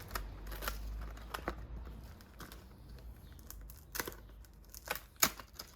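Crinkling and tearing as a label is pulled off a new fabric bicycle bag: irregular crackles and snaps, with a few louder ones about four and five seconds in.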